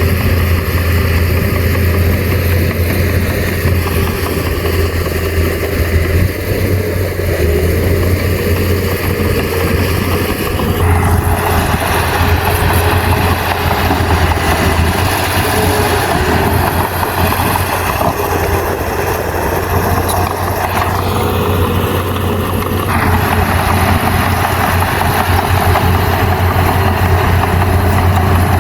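A bulldozer's heavy diesel engine running steadily with a deep hum. About a third of the way in, a harsher, louder noise joins it for roughly twelve seconds, then drops away.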